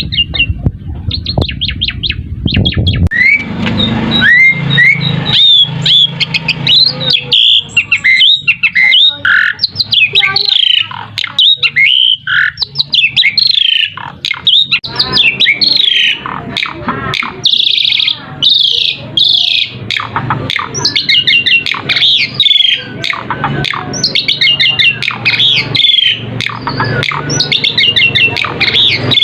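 Asian pied starling singing: a long, nearly continuous run of varied whistles, quick chattering notes and harsh squawks.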